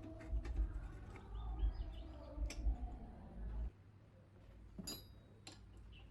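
Chickens calling over a low rumble that cuts off abruptly about three and a half seconds in, followed by a few light clinks, one of them ringing briefly.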